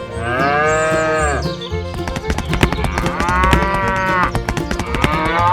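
Two long cow moos, each rising then falling, the second about three seconds in, over background music with a steady beat.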